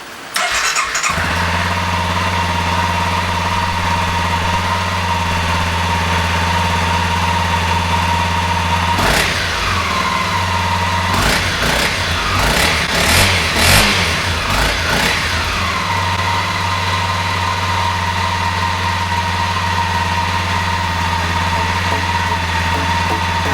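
Honda CRF250L's single-cylinder four-stroke engine on its stock exhaust, starting up and idling steadily, then blipped through a handful of quick revs between about nine and fifteen seconds in before settling back to idle.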